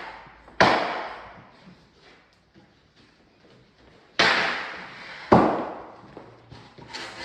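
Three sharp knocks of timber floorboards being set down and knocked into place on a concrete slab: one a little under a second in, then two about a second apart near the middle, each ringing out briefly.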